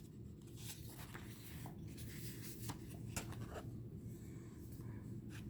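Faint paper rustling and a few light ticks as the pages of a small guidebook are handled and turned, over a low steady hum.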